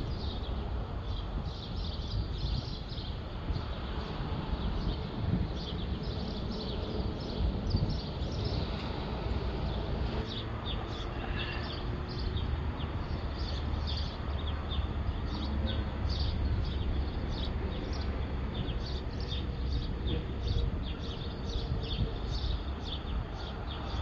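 Birds chirping, many short repeated chirps, over a steady low wind rumble on the microphone.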